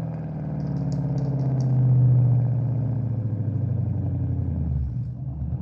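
ProCharger-supercharged Cadillac ATS-V engine running steadily, its low note swelling gently about two seconds in and settling again.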